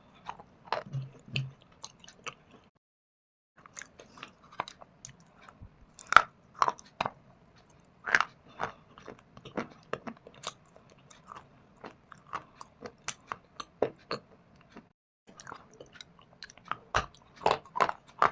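A person biting and chewing pieces of shale stone and Punjab clay (mitti) close to the microphone: irregular sharp crunches with gritty chewing between them. The sound drops out completely twice, a few seconds in and again about three-quarters through.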